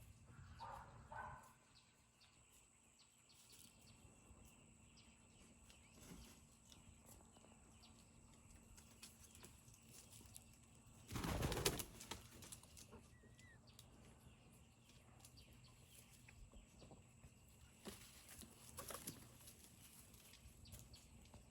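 Peafowl wings flapping in a loud burst of about a second near the middle as a bird flies up to roost, with softer flapping a few seconds before the end. Two short bird calls come right at the start.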